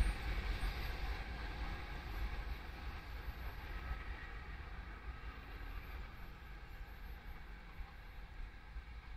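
BDZ electric passenger train receding down the line, its low rumble fading steadily away.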